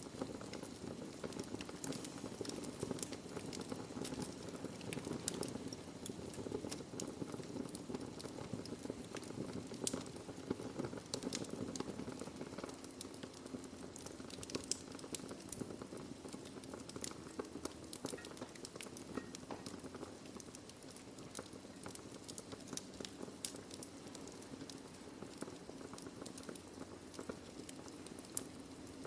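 Logs burning in a fireplace: frequent sharp crackles and pops, irregularly spaced, over a steady low rush from the fire.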